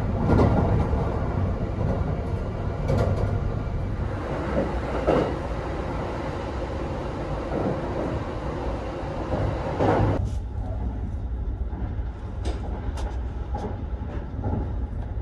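Steady running noise of the Kintetsu 'Hinotori' limited express, heard from inside the carriage as a continuous rumble. About ten seconds in the sound turns duller, with less hiss.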